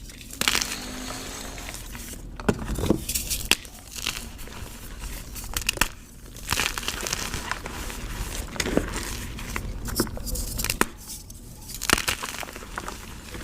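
Chalk being crushed, a continuous crackly crunching with sharper snaps at irregular moments every second or two.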